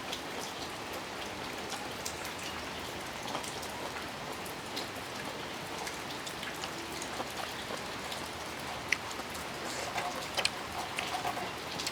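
Steady rain falling, an even hiss with scattered drips and small taps on nearby surfaces.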